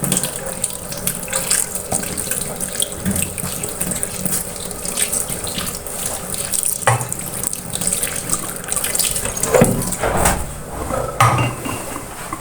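Tap water running into a sink while eggs and vegetables are rinsed, with a few knocks of a bowl or dishes, several of them late on.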